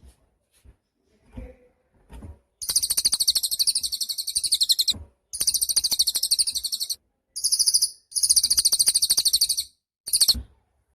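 A cililin songbird singing loud, rapid, very high trills in repeated bursts with short breaks between them: a long phrase, two shorter ones, another long one and a brief burst near the end. A few faint soft sounds come before the song starts.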